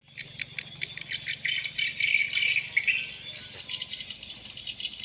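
Swiftlets calling: a dense, rapid twittering and clicking chatter, high in pitch and without pause, over a faint steady low hum.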